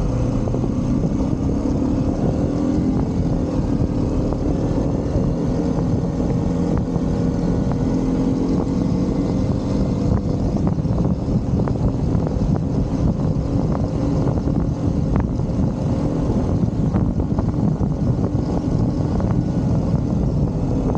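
Motorcycle engine running at a steady cruising pace with road and wind noise, its pitch drifting only slightly.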